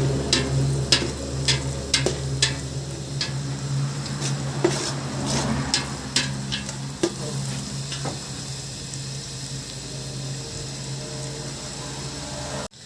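A metal spoon stirring curry frying in oil in a pan, clinking and scraping against the pan over a steady sizzle. The strokes come about twice a second at first, then more sparsely.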